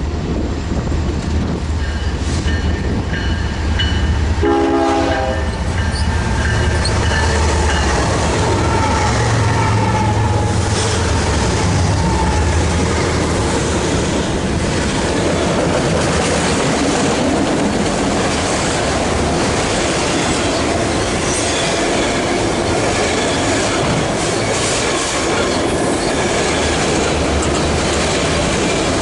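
BNSF freight train passing close by: diesel locomotives rumble past, a short horn note sounds about five seconds in, then the cars roll by with steady wheel clatter and intermittent wheel squeal.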